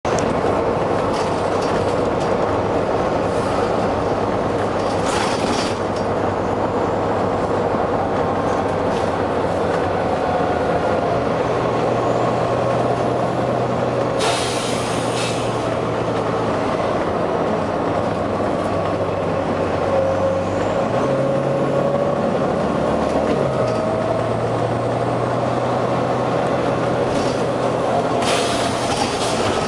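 Volvo B9TL double-decker bus's diesel engine running under way, its note stepping as it changes gear, with three short bursts of compressed-air hissing from the bus's air system, the longest about fourteen seconds in.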